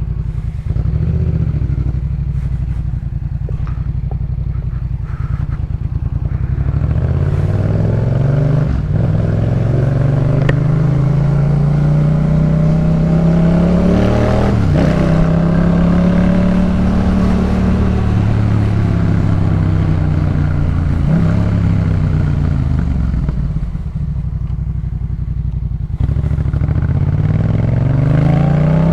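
A 2018 Yamaha MT-07's 689 cc parallel-twin, breathing through a Jeskap K4 full exhaust, under way. It runs low and steady at first, then accelerates hard, its pitch climbing and dropping back at each gear change. It eases off and slows, then accelerates again near the end.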